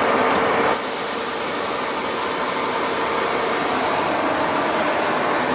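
Siemens Charger diesel locomotives idling at a standstill: a loud, steady hum of engine and cooling fans with a faint steady tone. The whole sound drops a little in level all at once just under a second in.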